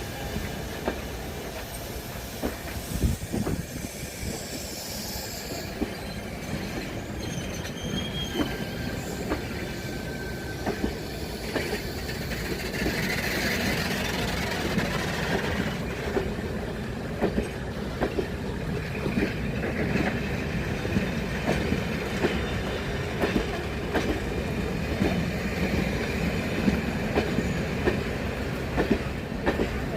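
A train moving along the track: wheels clicking over the rail joints under a steady rumble, with brief high-pitched wheel squeals now and then.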